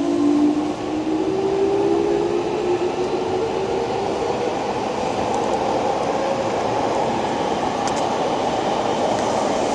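Tokyo Metro 6000 series train's Mitsubishi three-level IGBT VVVF inverter, heard from inside the car, whining in several tones that climb slowly in pitch as the train accelerates. The tones fade into steady running noise of the motors and wheels. This set is one of only two with this unusual-sounding inverter.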